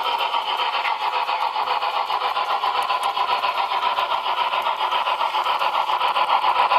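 HO-scale model train running on the layout: a steady, buzzing mechanical hum with a rapid, even fine pulsing and little bass, growing slightly louder near the end.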